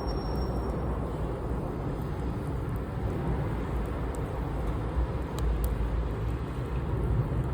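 Campfire burning: a steady low rushing noise with a few faint crackles.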